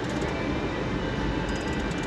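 Casino floor ambience: electronic slot machine music and tones over a steady hum of machines and people.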